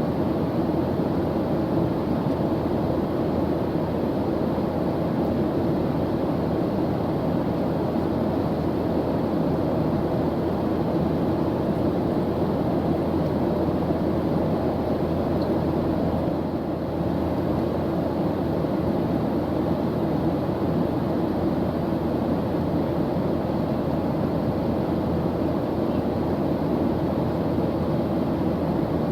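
Airplane engine running steadily in flight: an even, low-pitched rushing noise, with a brief slight dip about halfway through.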